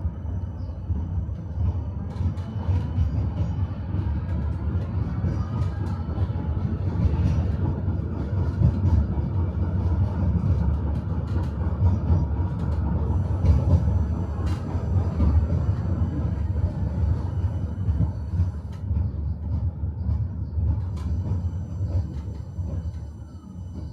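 Tram running on its rails: a steady low rumble with the clatter of wheels over rail joints. It picks up at the start and eases off near the end.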